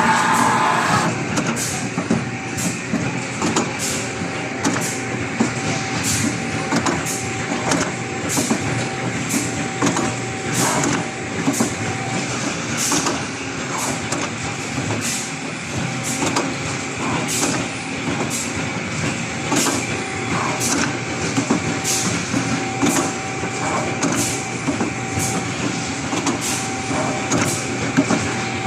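Zamil air conditioner running with a steady whirring hum and a steady tone, and a sharp tick repeating about once a second.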